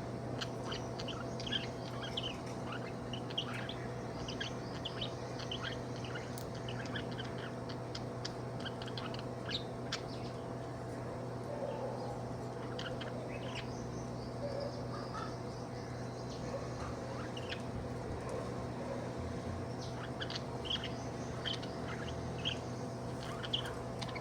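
Budgerigar chirping and chattering in many short, quick notes, with a steady low hum underneath.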